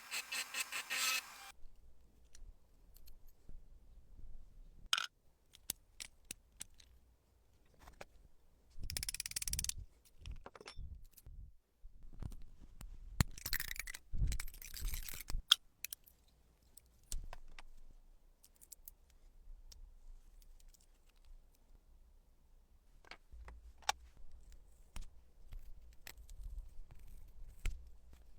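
A small metal lighter and tools being handled and worked on. There are scattered clicks and taps, and short scraping or rasping runs in the first second or so, around nine seconds in, and again around thirteen to fifteen seconds.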